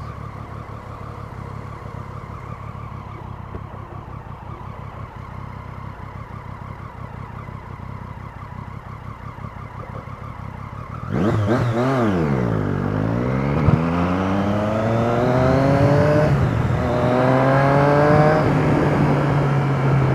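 Motorcycle engine running steadily and quietly, then about eleven seconds in it gets much louder: the pitch drops briefly, then climbs hard twice, each climb ending in a gear change, as the bike accelerates through the gears.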